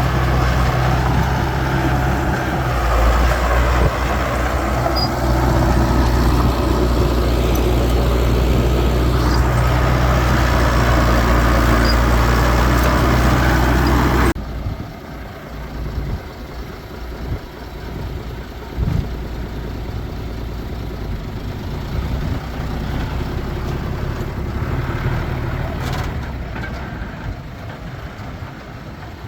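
Diesel engines of heavy earth-moving machinery running. A loud, steady engine for about the first half cuts off abruptly to a quieter engine sound for the rest.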